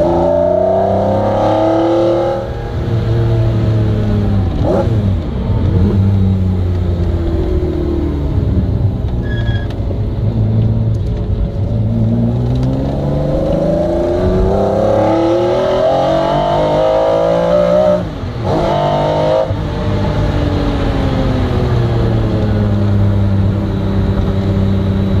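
McLaren F1's 6.1-litre BMW V12 heard from inside the cabin, accelerating and easing off in turn: the engine note falls away at first, climbs in a long rising pull, dips briefly about eighteen seconds in, then settles lower and steadier.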